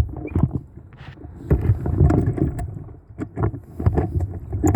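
Honda CR80R's 80 cc two-stroke engine running as the dirt bike is ridden, heard poorly through a phone mount: mostly buffeting and irregular knocks and rattles over a muffled engine.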